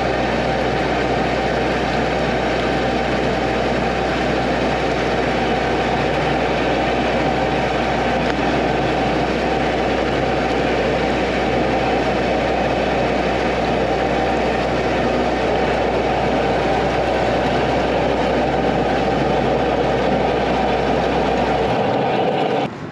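High-pressure drain jetter (4000 psi, 12 gpm) running steadily, its pump and water jet flushing loosened limescale back down the pipe toward the manhole. The sound cuts off abruptly near the end.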